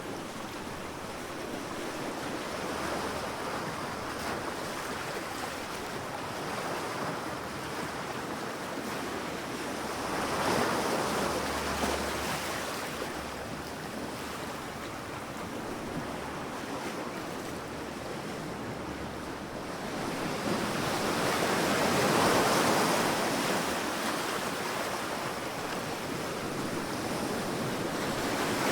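Sea waves washing onto a beach, the surf swelling and easing in slow surges, with a few louder breakers about a third of the way in and again past the middle.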